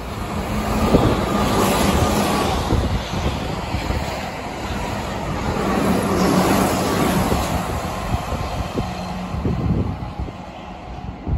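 Keihan 8000 series electric express train running through a station at high speed without stopping: a loud rush of wheels on rail and air, with sharp clacks of the wheels over the track, growing quieter near the end as the train pulls away.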